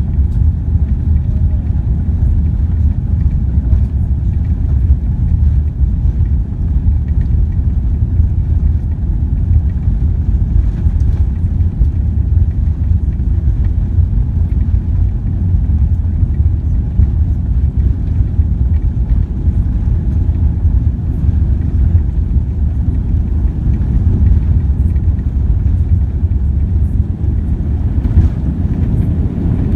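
Steady low rumble of engine and airflow noise inside the cabin of a Boeing 787 airliner, with no rise or fall.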